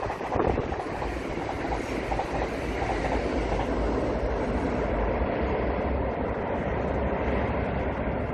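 ITX-Saemaeul electric multiple-unit train running over a railway bridge: a steady rumble of wheels on rails with some clickety-clack. It is loudest in the first half-second as it passes, then holds an even level as it goes on across the bridge.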